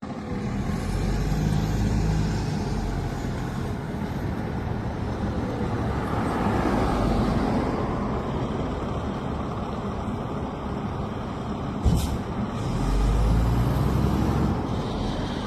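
Fire engine's diesel engine running steadily, with a short sharp burst near the end.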